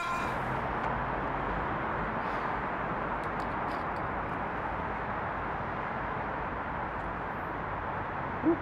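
Steady outdoor city background noise, an even hum of distant traffic, with a few faint clicks about three and a half seconds in.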